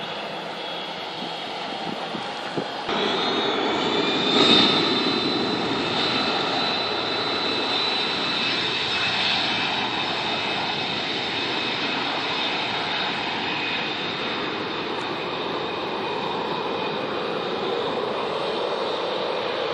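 Airplane engines at takeoff power: a steady rush with a high whine, getting louder about three seconds in, then holding for the rest.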